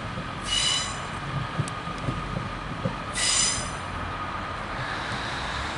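Class 150 Sprinter diesel multiple unit on the move over a steady low rumble, with two short high-pitched wheel squeals, about half a second in and again about three seconds in.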